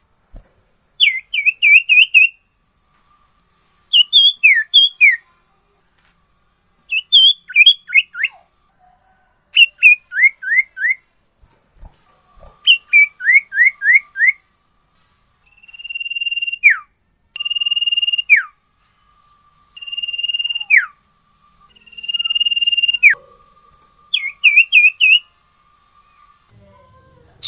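Sirtu songbird singing vigorously in repeated whistled phrases. First come quick runs of four to six rising-and-falling notes. From about halfway, it switches to long level whistles that each end in a sharp downward slur, about every two seconds.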